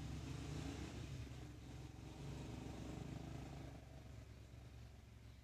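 A motor vehicle's engine running low and faint, fading away over the last couple of seconds.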